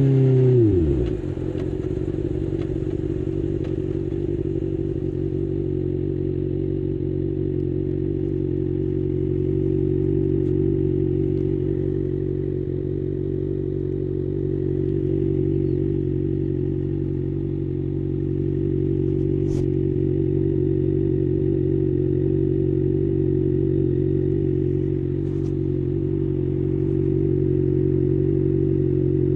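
2024 Kawasaki ZX-6R's 636 cc inline-four engine dropping quickly from revs to idle about a second in, then idling steadily.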